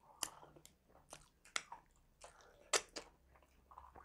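Close-up chewing of a mouthful of pulao rice and chicken, with irregular wet smacks and clicks a few times a second; one sharp smack about three seconds in is the loudest.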